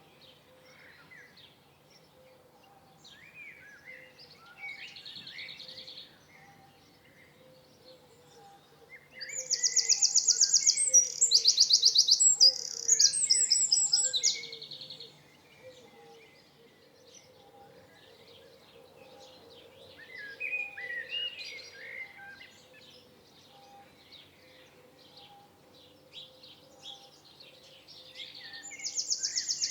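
Songbirds singing: a loud song of fast repeated high notes about nine seconds in, lasting several seconds, and again near the end, with quieter chirps and whistles between.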